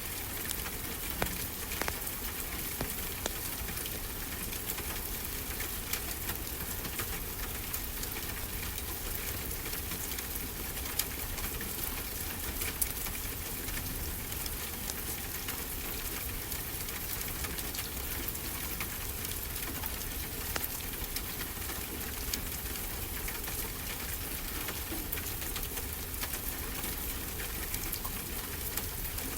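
Wood fire crackling, with frequent small sharp pops scattered over a steady hiss of ocean surf.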